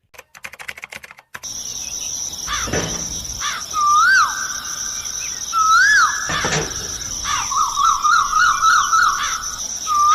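Countryside ambience: birds calling over a steady high-pitched insect drone that starts about a second and a half in. Repeated swooping whistled calls, a fast trill near the end, and two harsher calls like crow caws.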